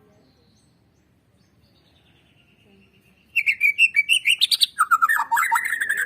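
White-rumped shama (murai batu) singing: a faint thin whistle, then from about three seconds in a loud run of rapid, varied whistled phrases.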